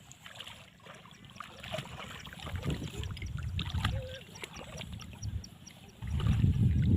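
Water moving and trickling in a flooded field, with a low rumble that turns much louder near the end.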